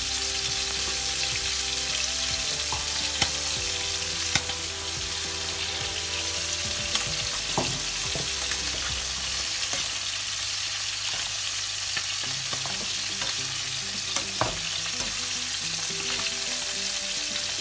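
Shrimp and taro stolons sizzling and frying in oil and spice paste in a pan. A few sharp knocks of a spatula against the pan come as the food is stirred.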